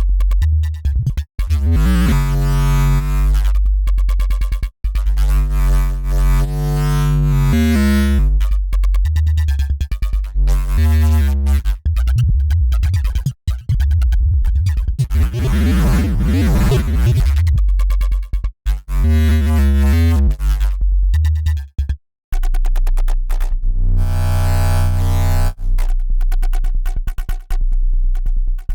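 Synthesized FM bass riff with a gritty, distorted tone: deep bass notes repeating in a looped pattern, some of them bright with overtones and one warbling in a wobble about halfway through, with short abrupt gaps where it cuts off.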